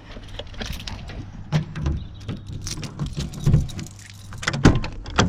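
Handling noise: scattered clicks, knocks and light jingling, with a few soft low thumps, over a low steady hum.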